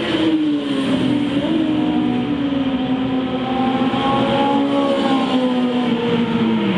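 Engine of a vehicle lapping a race circuit, heard onboard: the engine note falls over the first two seconds, holds fairly steady, then dips briefly near the end before rising again.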